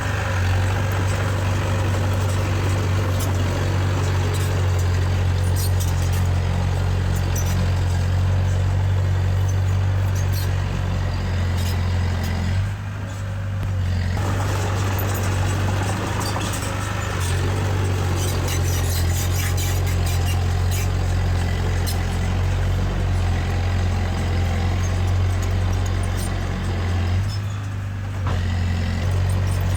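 Diesel engine of heavy earthmoving machinery running steadily with a deep hum, with scattered light clanking. The engine note drops briefly twice, about halfway through and near the end.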